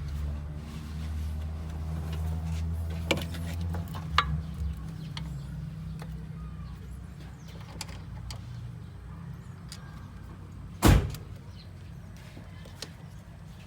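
A car engine running steadily with a low hum, a little louder for the first few seconds. Two sharp clicks come a few seconds in, and one loud knock near the end.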